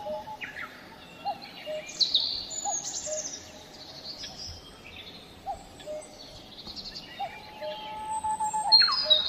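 Birdsong: a low two-note call, higher then lower, repeated about every second and a half, under a mix of high chirps and trills from small songbirds, with the loudest chirps about two seconds in and near the end.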